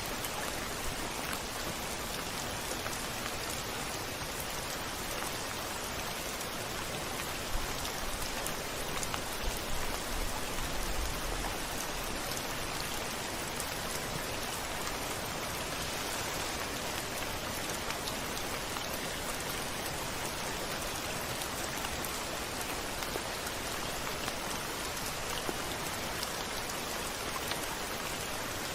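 Steady rain falling, with a brief low rumble about eight to eleven seconds in.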